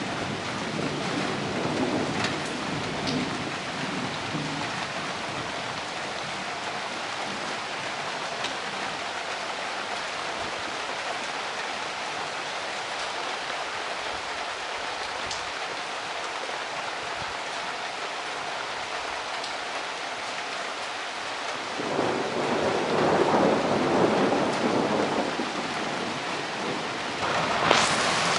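Steady rain hissing during a thunderstorm. Thunder rumbles low in the first few seconds, swells louder about 22 seconds in, and a sharp thunderclap breaks near the end.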